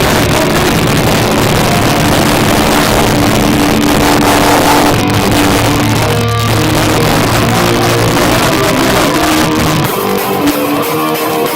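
Live heavy rock band playing loud, with distorted electric guitar, bass and drums, recorded on a cheap phone so the sound is harsh and overloaded. About ten seconds in the low end drops away and the guitar carries on more thinly.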